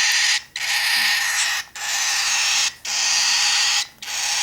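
Two-week-old baby cockatiel giving long raspy hissing calls, about one a second, each lasting nearly a second with short breaks between.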